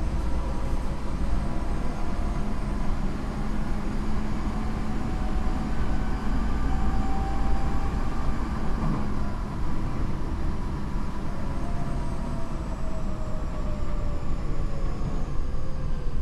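Tokyo Metro 8000 series train running, with the whine of its Mitsubishi IGBT inverter motor drive over a steady wheel-and-rail rumble. In the last few seconds the motor tones fall in pitch as the train slows.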